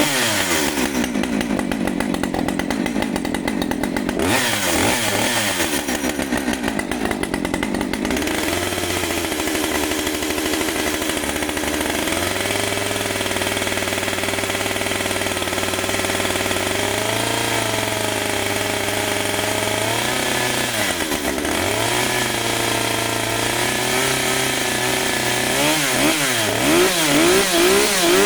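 Husqvarna 545 Mark II chainsaw's two-stroke engine running after a cold start. It mostly holds a steady speed, with the throttle blipped to rev it up and back down at the start, a few seconds in and about twenty seconds in, then several quick revs near the end.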